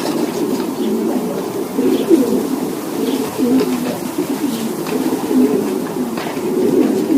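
A crowd of racing pigeons cooing together, a continuous chorus of low, overlapping coos.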